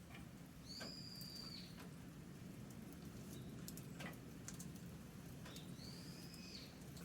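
A bird gives two drawn-out, even whistled calls about five seconds apart, over faint scattered crackling from a campfire.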